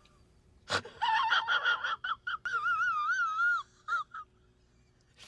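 A young child's high-pitched squealing voice, wavering up and down in pitch for a few seconds after a short click, with a couple of brief chirps near the end.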